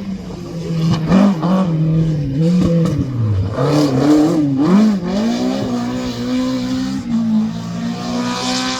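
Rally car engine revving hard, its pitch rising and falling through throttle lifts and gear changes, dropping low about three seconds in before climbing again. It then holds a steady, slowly rising note under full throttle.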